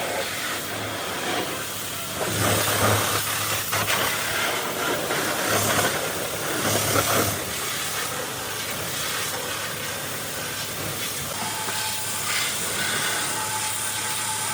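Pressure washer spraying water with a steady hiss that swells louder in stretches, over a low machine hum.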